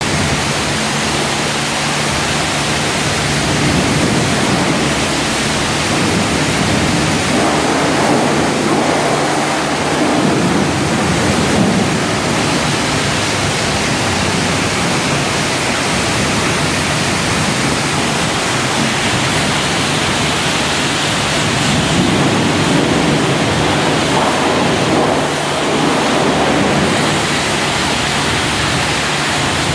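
Car wash water jets spraying, a steady rushing hiss that swells a little now and then.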